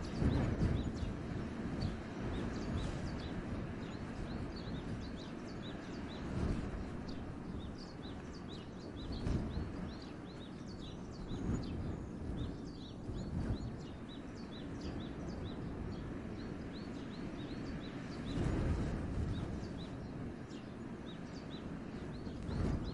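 Wind blowing through a forest in gusts: a low rumble that swells every few seconds. Small birds chirp almost without pause in short, high calls.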